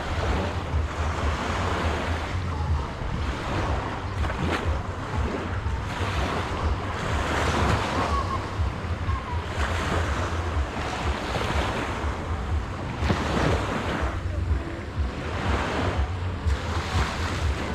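Sea waves breaking and washing up on a sandy beach in irregular surges, with wind buffeting the microphone in a steady low rumble.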